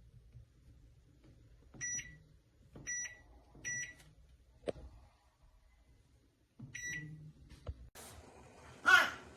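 Microwave oven control panel beeping four times, each a short high beep, with a sharp click between them. Near the end comes a louder clatter of handling.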